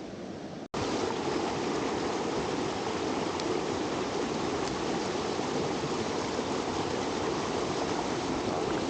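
Mountain stream water rushing steadily. There is a brief break under a second in, after which the rush is louder.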